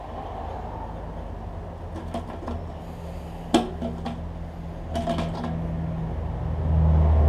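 Hand can opener cutting the rim off a large metal tin: scattered clicks and scrapes over a steady low hum that grows louder near the end.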